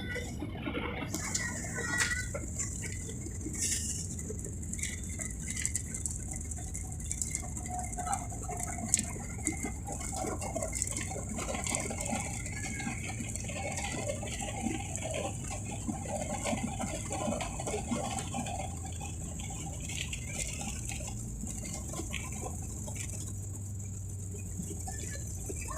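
Airliner cabin noise in turbulent weather: a steady low rumble of engines and airflow, with frequent rattling and knocking of cabin fittings.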